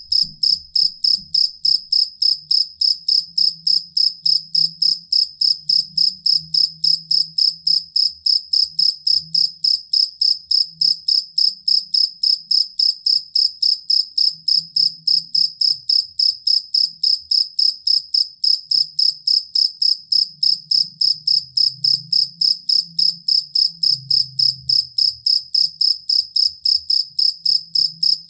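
Field cricket singing: a steady, rapid train of evenly spaced, high-pitched chirps, with a faint low rumble underneath.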